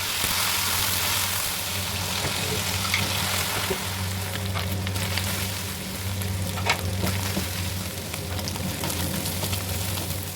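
Food sizzling as it is stir-fried in a hot pan, a loud hiss that is strongest at first and eases off a little. Sharp clicks are scattered through it, the loudest about two-thirds of the way in.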